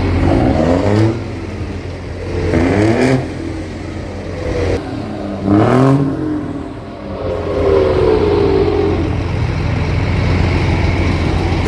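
Truck engines revving over a steady low drone; the pitch climbs and falls about four times.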